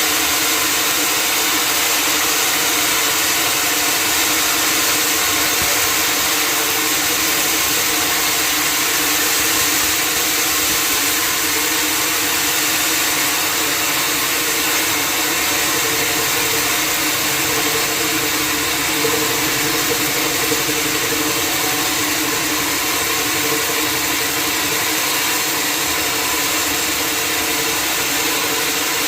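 Sawmill machinery running steadily, an even, unbroken mechanical noise with no breaks or changes.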